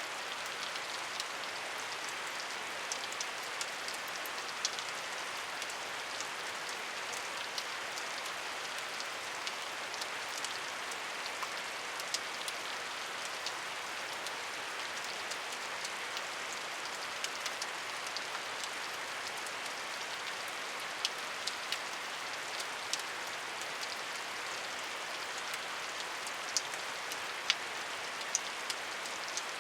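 Steady rain falling, an even hiss with scattered sharper taps of individual drops hitting a surface.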